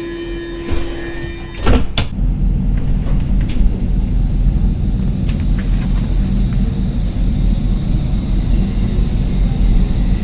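Stockholm metro train: a steady warning tone sounds, then the sliding doors shut with a few sharp knocks about two seconds in, followed by the train's steady low running rumble.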